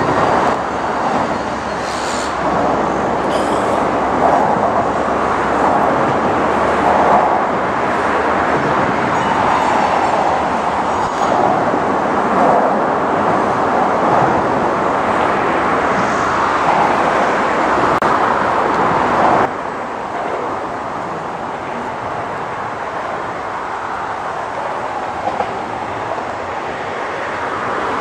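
Freight train rolling past: a steady rumble and rush of steel wheels on rail that swells and fades. About two-thirds of the way through it cuts off suddenly to a quieter, steadier rumble of a train further off.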